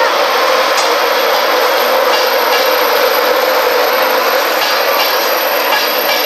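InterCity 225 train passing: the Class 91 electric locomotive and its Mark 4 coaches rolling by close at hand, a loud, steady rush of wheel and running noise on the rails.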